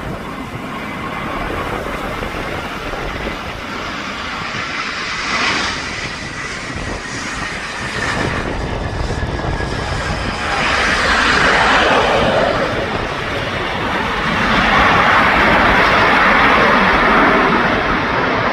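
British Airways jet airliner's engines running, with a faint steady whine at first, growing louder about ten seconds in and again near the end, while gusty wind rumbles on the microphone.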